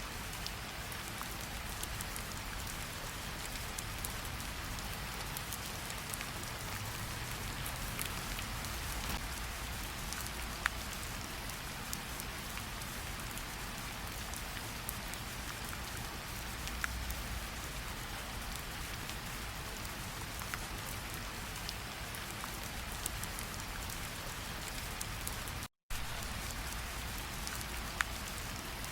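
Steady rain falling, with scattered individual raindrops tapping close by. The sound cuts out completely for a split second near the end.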